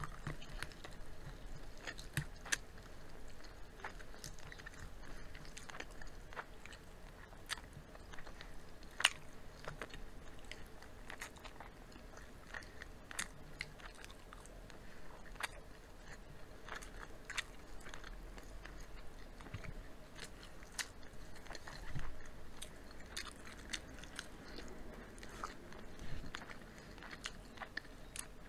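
Close-miked eating sounds of two people biting into and chewing crispy fried chicken and roast chicken: scattered sharp crunches, irregular and steady throughout.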